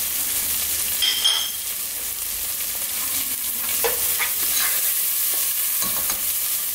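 Onions, chillies and ground spices frying in sunflower oil in a nonstick pot, a steady sizzle. A spoon stirs the masala, scraping against the pot several times.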